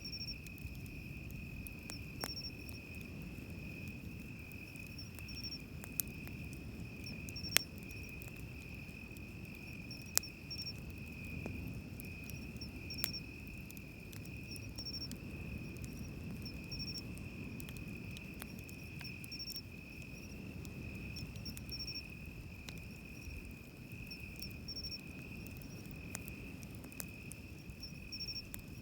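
Crickets trilling steadily, with a second insect giving short, higher chirps, over the low, even rumble of waves on the shore. A campfire crackles with a few sharp pops, the loudest about seven seconds in.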